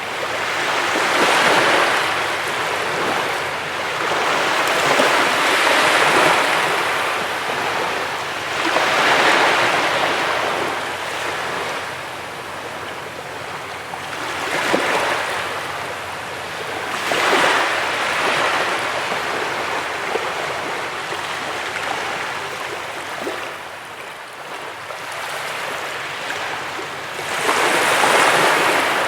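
Ocean waves breaking on a beach, each breaker swelling into a louder rush of surf every few seconds, one of the loudest near the end.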